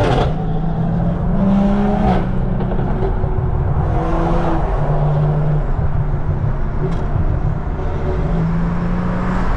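Car engine droning steadily under way with road and tyre noise, its pitch shifting a little.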